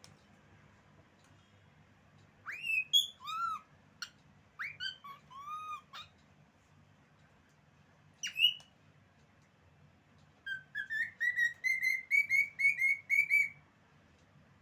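Cockatiel whistling its song: a few swooping whistled phrases, a single sharp note, then a quick run of short whistles, about four a second, that climbs slightly in pitch.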